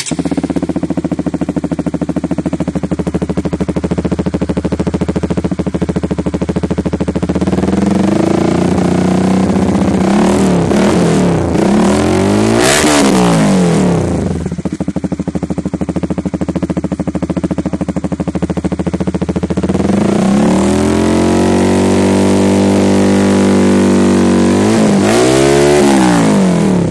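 Honda CBR150R's single-cylinder four-stroke engine running loud through an aftermarket full-system racing exhaust. It idles steadily, then is blipped several times in quick succession around the middle. Near the end it is revved up and held high, then drops back with a couple more blips.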